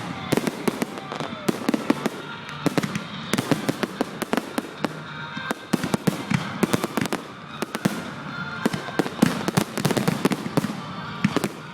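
Fireworks going off at a display: rapid sharp cracks and pops that come in dense clusters, with a few louder single bangs among them.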